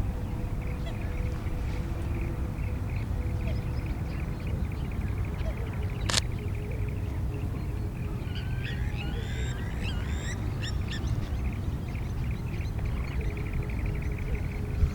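Wetland birds calling: a fast, even trill runs most of the way, and a burst of quick chirping calls comes about eight to eleven seconds in. A single sharp click about six seconds in.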